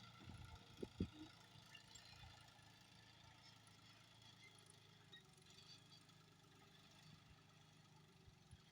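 Near silence: a faint steady low hum, with two soft knocks about a second in.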